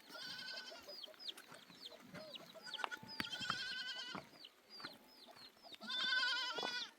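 A goat bleating three times, each wavering call just under a second long and about three seconds apart, the last one the loudest. Short, high falling peeps repeat several times a second throughout.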